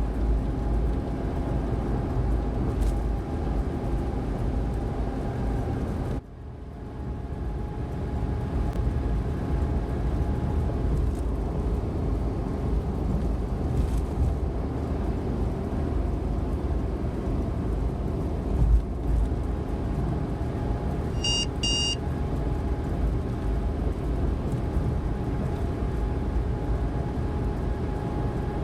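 Inside the cab of a Suzuki Every DA17V van at expressway speed: steady engine and road rumble with a droning hum. About six seconds in the sound drops away suddenly and swells back over a couple of seconds. About two-thirds of the way through, two short electronic beeps sound from the dashboard.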